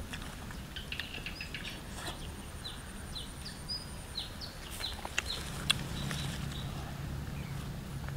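Small birds chirping: a quick string of short chirps, each dropping in pitch, through the first half, over steady outdoor background noise. A few sharp clicks come near the middle, and a low steady hum sets in about five seconds in.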